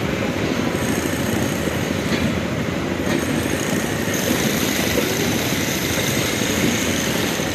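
Passenger coaches of an Indian Railways express train rolling past: a steady rumble and rattle of wheels on the rails, with a few faint clicks.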